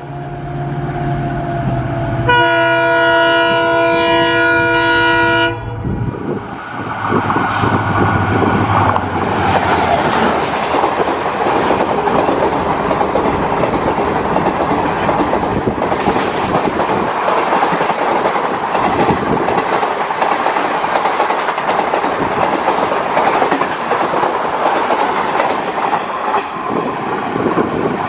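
A WDG-4 diesel locomotive's engine drones as it approaches, then sounds one long horn blast of about three seconds. From about six seconds in, the locomotive and its passenger coaches rush past at speed, with wheels clattering over the rail joints.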